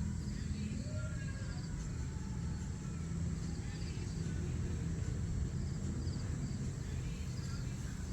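Steady low rumble of distant road traffic, with small birds chirping in short, high trills every second or so.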